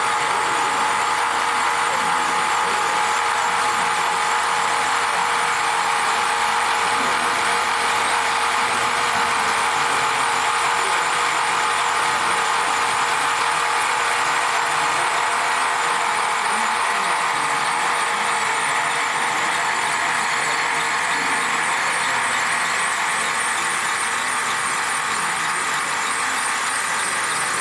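A steady whine that holds a constant pitch, over a dense hiss of background noise with faint voices.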